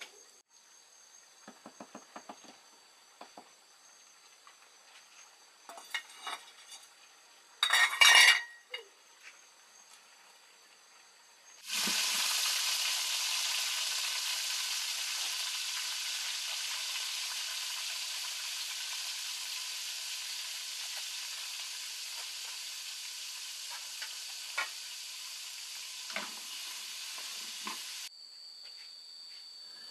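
Long beans frying in hot oil in a metal pot over a wood fire: a loud sizzle that starts abruptly about halfway in, as the beans hit the oil, fades slowly, and cuts off near the end. Earlier there are a few light clicks and a sharp clatter of pot and utensils, with crickets chirping steadily.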